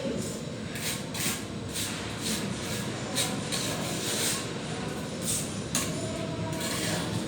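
Plastering trowel scraping across a wall in short, irregular strokes, about one or two a second, over a steady rumble of construction-site noise.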